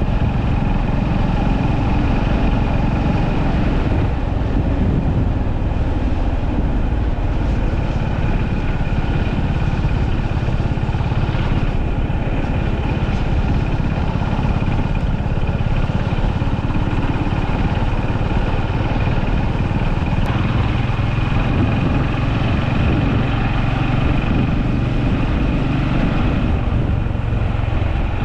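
Honda GB350S motorcycle's single-cylinder engine running steadily.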